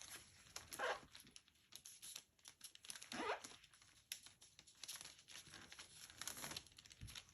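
Faint crinkling and tearing as a towel is handled, with scattered small clicks and two brief soft swishes about a second and three seconds in.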